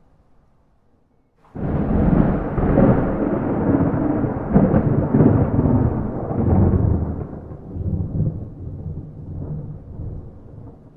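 Thunder without rain: after a quiet first second and a half, a clap breaks in suddenly and rolls on as a deep rumble that swells several times and then fades unevenly.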